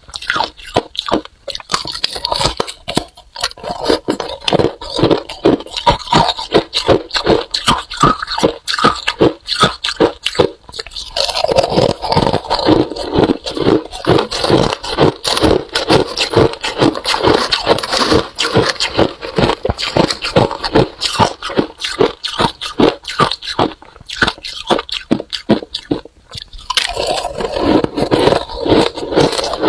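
Freezer frost being bitten and chewed close to the microphone: rapid, dense crunching that grows fuller and louder about eleven seconds in, with a brief lull near the end.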